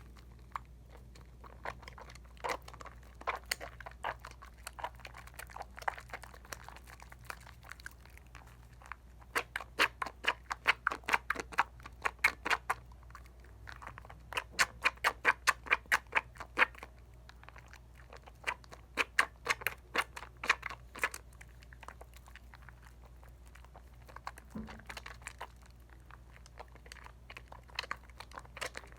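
Wet hands lathering a bar of Dial coconut soap, making soft sticky clicks that come in quick runs of several strokes a second, three times over, with scattered single clicks between.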